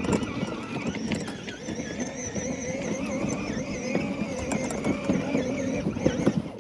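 Small mini bike engine running under way, its pitch wavering up and down with the throttle.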